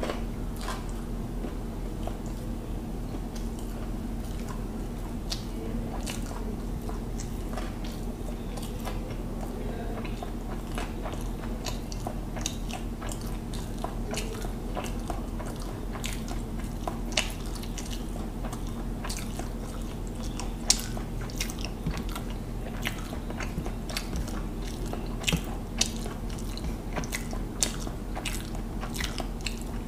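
Close-miked chewing and mouth sounds of a person eating hilsa biryani by hand: many small wet clicks and smacks, with a few louder ones in the second half, over a steady low hum.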